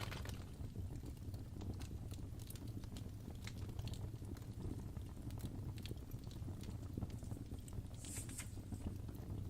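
Fireplace fire crackling: a steady low rumble of the flames with irregular sharp pops and snaps scattered throughout, and a brief hiss about eight seconds in.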